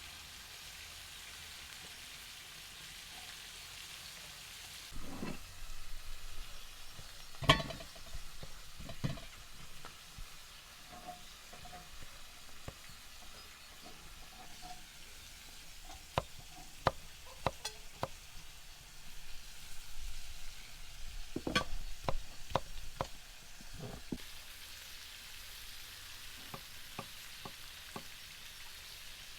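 Food frying on a saj pan, a steady sizzle, with scattered sharp clicks and knocks from stirring and handling. The loudest knock comes about seven seconds in, and a cluster of them follows about sixteen to twenty-three seconds in.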